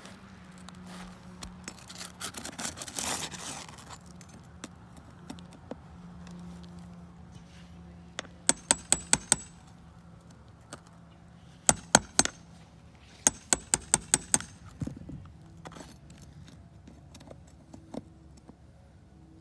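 Nailing on a shingle roof: three quick runs of sharp strikes, five or six in each, after a stretch of scraping.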